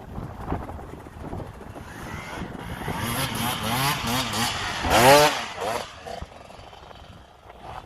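Dirt bike engine revving up and down under the rider's throttle, loudest about five seconds in with a sharp rise and fall in pitch, then dropping away.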